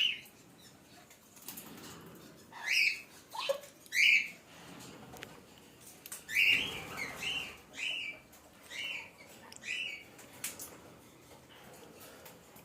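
Pet parrot calling: three sharp, pitch-gliding calls around three to four seconds in, then a run of six short, even calls about two-thirds of a second apart, with faint clicks in between.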